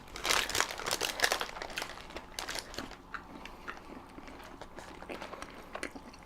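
Close-miked eating of a chili dog: a bite with a dense patch of crackly sound in the first second or so, then chewing with scattered wet mouth clicks.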